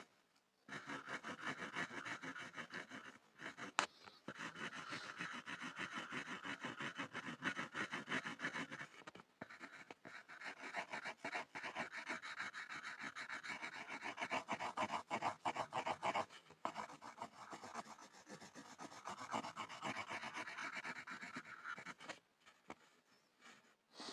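Pencil scribbling fast on a board: a dense run of scratching strokes, broken by a few short pauses. There is a sharp tap about four seconds in, and the scribbling stops about two seconds before the end.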